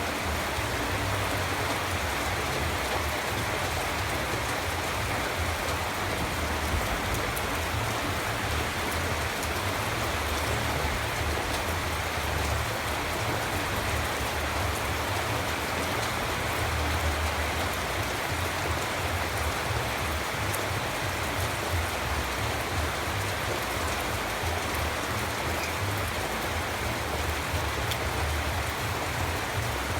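Steady rain falling on a surface, an even hiss with a low rumble underneath.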